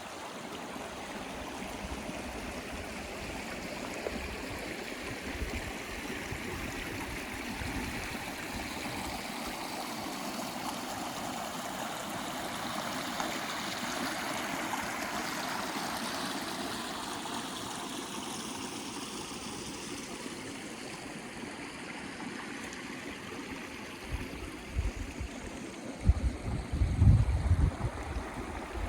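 Mountain stream flowing and gurgling steadily. Near the end, wind buffets the microphone in low gusts.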